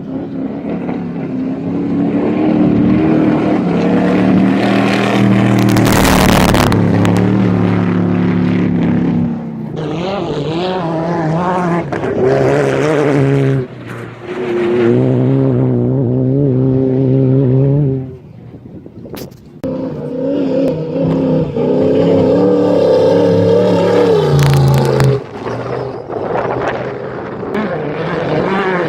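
Off-road race vehicles' engines running at full throttle as they pass one after another, each loud pass fading before the next engine comes in.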